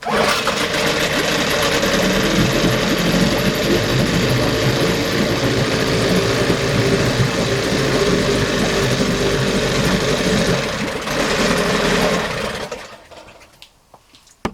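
1976 Evinrude 9.9 two-stroke outboard motor running steadily, then shut off about twelve seconds in and winding down to a stop.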